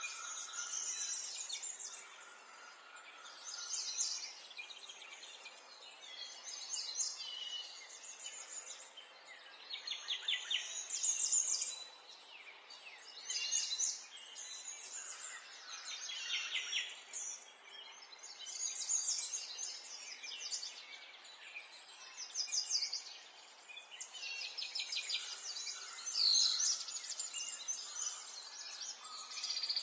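Several songbirds singing in turn, a rapid trill or whistled phrase every second or two, over a faint steady outdoor hiss.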